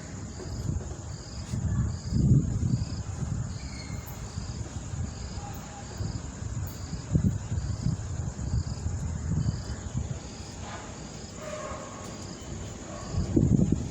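Gusts of wind buffeting the microphone as a low, uneven rumble. Over it an insect, likely a cricket, chirps steadily at about one short high chirp a second.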